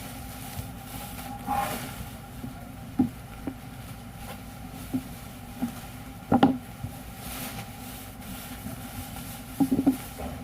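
Machine running a glue-cutting cycle: a steady hum with irregular mechanical clicks and knocks, the loudest cluster about six seconds in and another near the end.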